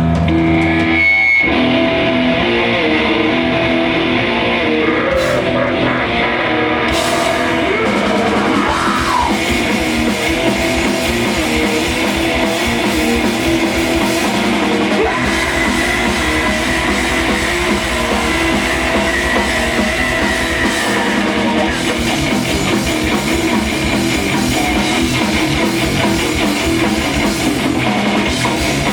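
Rock band playing live and loud: electric guitars and a drum kit, with a short break about a second in before the full band comes back in.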